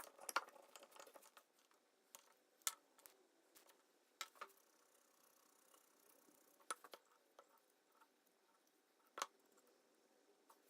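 Near silence broken by a few faint, sharp clicks or taps, spaced a second or more apart, after a brief rustling in the first second or so.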